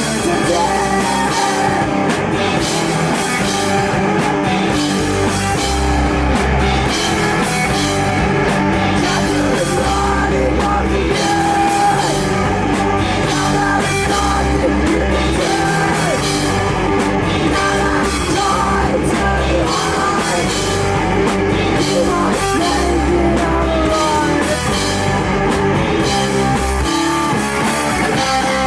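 Live rock band playing a loud song at full volume: electric guitars, bass and drum kit with a steady beat, in a punk rock style.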